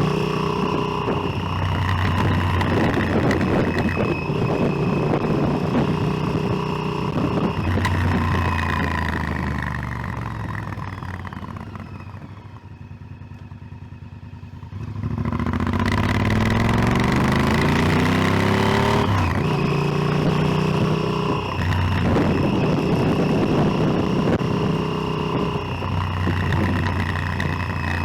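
Motorcycle engine running on the move, its pitch stepping as it changes revs and gears. About ten seconds in the sound falls away to a low level for a few seconds, then comes back abruptly with revs climbing steadily as it accelerates.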